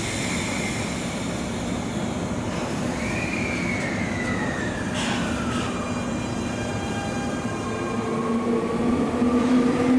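JR 189-series electric train at a platform starting to pull away, its running noise growing louder and its motor tone rising slightly in pitch as it gathers speed near the end. A high squeal slides down in pitch a few seconds in, with a short knock about halfway.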